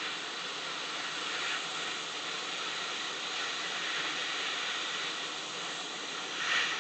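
Steady hiss of a hot air rework station blowing on high heat, swelling briefly near the end.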